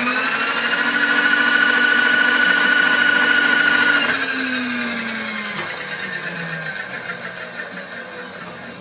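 Electric motor of a workshop machine tool running at a steady pitch. About four seconds in it is switched off and winds down, its pitch falling as it fades.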